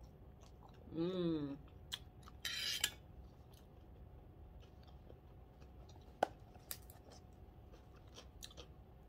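A person chewing papaya salad close to the microphone, with scattered small wet mouth clicks. A short wavering hummed "mmm" comes about a second in, and a brief breathy hiss follows about a second later.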